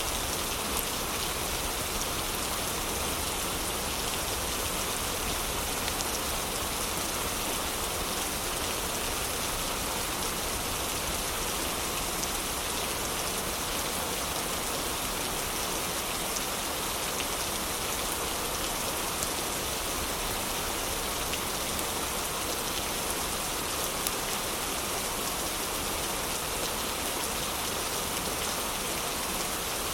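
Heavy rain falling steadily as an even hiss, with a few faint sharp ticks here and there.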